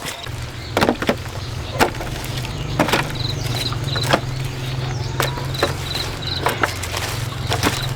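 Irregular sharp knocks, about one or two a second at uneven spacing, over a steady low motor hum.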